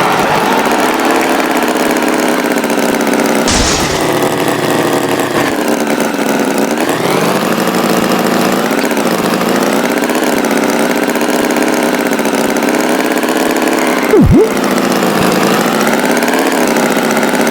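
Cartoon tractor engine running, its pitch rising and falling as the revs change. A brief hiss cuts in about three and a half seconds in, and a quick swooping sound effect comes near the end.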